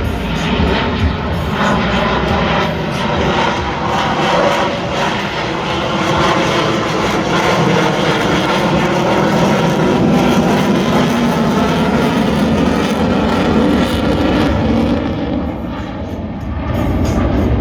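Military jet aircraft engine noise as a jet flies past, loud and steady with slowly bending tones, easing briefly near the end.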